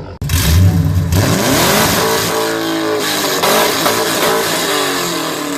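Car engine being revved hard through a loud exhaust, its pitch climbing and dropping several times; the sound starts abruptly about a quarter second in.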